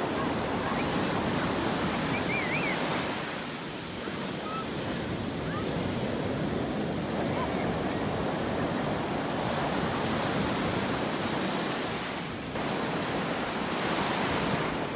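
Sea waves breaking and washing on the shore, a steady surf that swells and ebbs, dipping briefly twice.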